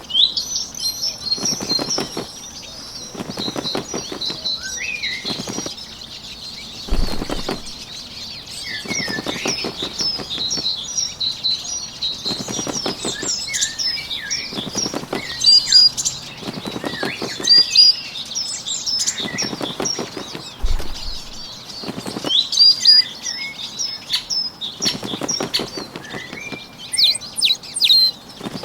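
Recorded bird ambience: many small songbirds chirping and twittering without a break, with a short flutter of wingbeats every couple of seconds.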